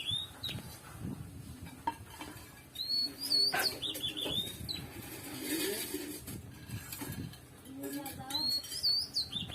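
A bird sings the same short, high whistled phrase three times, a few seconds apart, over faint voices.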